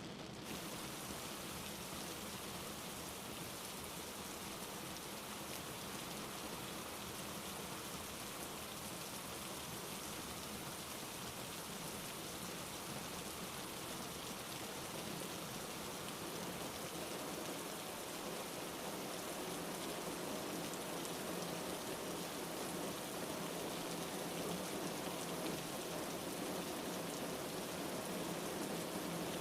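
Steady rain falling, an even hiss with no thunder, growing slightly louder in the second half.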